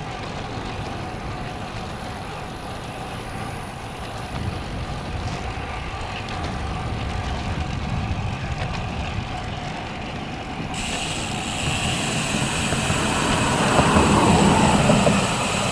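Steady wind and road noise from riding a road bicycle. It swells in the last few seconds as a motor vehicle passes close by.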